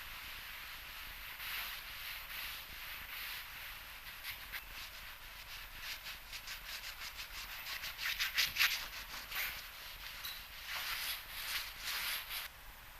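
Hand sanding of a surface in preparation for a spot repair: a rasping stroke repeated back and forth, quickening to about four strokes a second, then a few longer strokes that stop shortly before the end.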